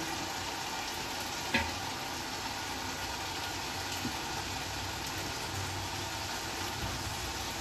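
Biryani masala sizzling steadily in a large metal pot on the stove, with a ladle clinking against the pot once about a second and a half in.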